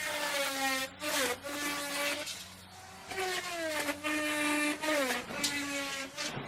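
Electric wood router cutting into wood. The motor's whine sags in pitch several times as the bit bites into the wood under load, with bursts of cutting noise, and climbs back up between cuts.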